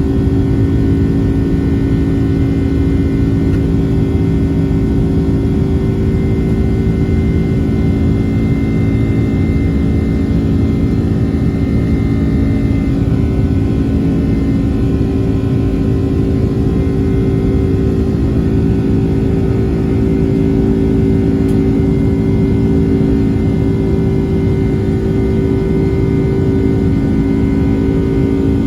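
Cabin noise inside a Boeing 767-300ER during takeoff: the twin jet engines and airflow make a steady drone with several steady low tones, unchanging throughout.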